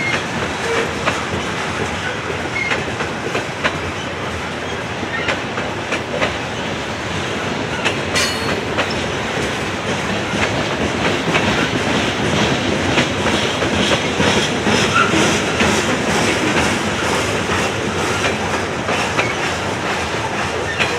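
Hopper cars of a Norfolk Southern coal train rolling steadily past, their wheels clicking rhythmically over rail joints, with a few brief faint wheel squeals.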